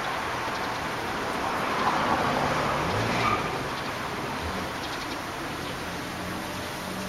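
Road traffic noise: a steady rush with a low engine hum, swelling about two to three seconds in and easing off afterwards.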